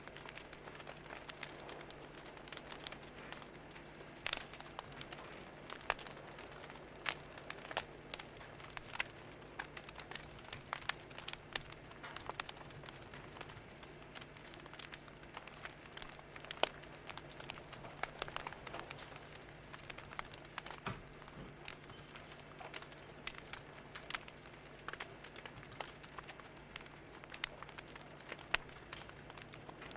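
Fire crackling: irregular sharp snaps and pops, a few each second, over a faint steady hiss and a low hum.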